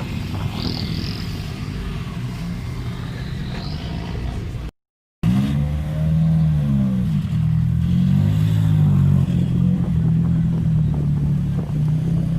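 Car engine noise in two edited pieces. First a steady low rumble, then, after an abrupt cut, a louder engine revving with its pitch rising and falling.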